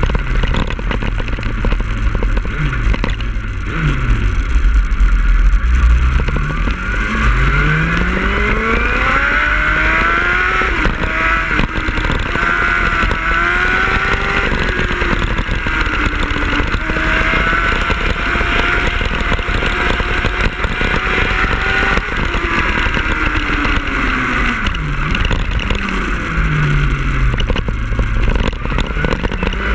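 2005 Yamaha YZF-R1's inline-four engine under way, revs climbing and dropping back several times as the rider accelerates and changes gear, with wind rumbling on the microphone.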